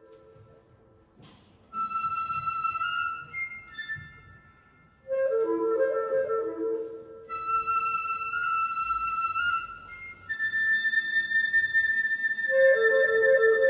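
Flute and two clarinets playing as a trio. After a quiet moment and a click, a high flute line sounds alone, and lower parts join in twice, about five seconds in and near the end.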